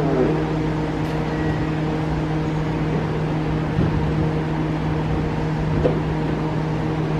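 Steady mechanical hum of a train standing at a station platform, with a constant low drone and a couple of faint higher tones.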